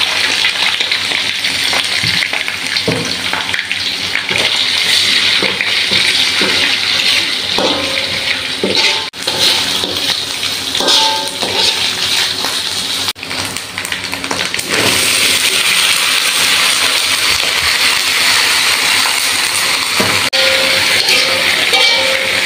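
Hot oil sizzling steadily in a wok as belacan (shrimp paste) fries with shallots, garlic and chilli, a loud frying hiss with a few knocks along the way.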